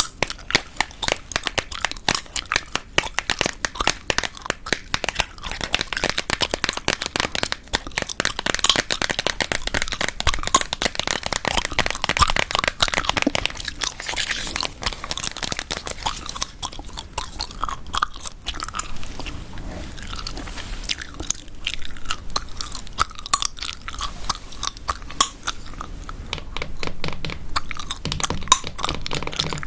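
Gum being chewed close to the microphone: a dense, irregular run of sharp mouth clicks and smacks.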